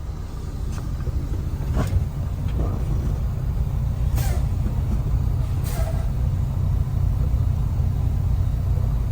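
Semi truck's diesel engine running, heard from inside the cab as a steady low rumble, with a few short hisses about two, four and six seconds in.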